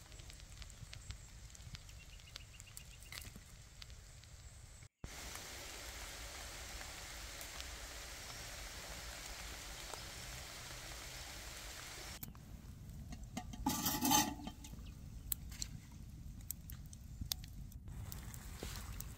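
Light rain dripping in a forest, then an even hiss of rain on a tarp shelter, then a campfire crackling. A short, loud burst of sound stands out about fourteen seconds in.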